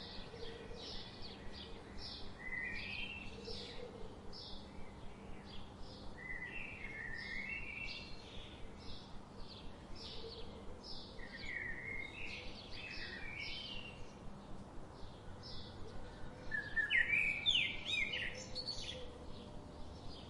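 Songbirds singing: one bird repeats a short high chirp about twice a second throughout, while another sings brief warbling phrases every few seconds, the loudest near the end, over a faint steady hiss.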